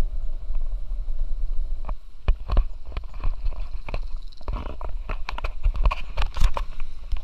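Low wind rumble on the microphone during a bicycle ride, with frequent irregular clicks and knocks that grow denser in the second half.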